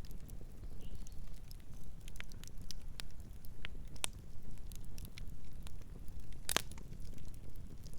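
Campfire crackling: irregular sharp pops and snaps of burning wood, the loudest about six and a half seconds in, over a steady low rumble.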